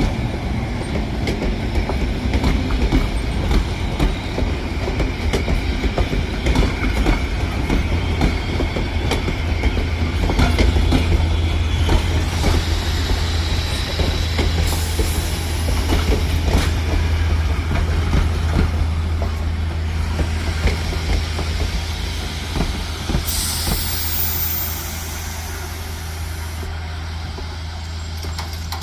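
Railway carriages rolling slowly along the track, wheels clicking over the rail joints over a steady low drone, with a thin wheel squeal about halfway through. A high hiss sounds briefly about three-quarters of the way through, and then the sound eases off.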